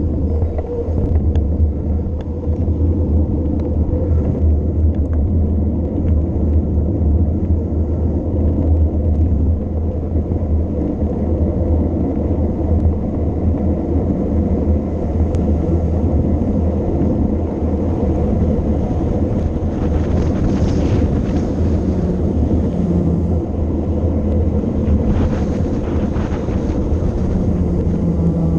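Steady low rumble of wind buffeting the camera microphone on a fast bicycle descent. There is some faint higher hiss about two-thirds of the way through.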